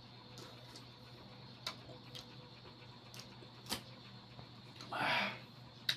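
A person chewing a mouthful of soft banana with faint, wet mouth clicks, and a short breathy rustle about five seconds in.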